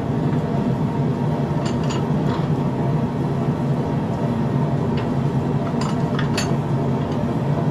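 A loud, steady mechanical drone, with a few faint short clicks over it.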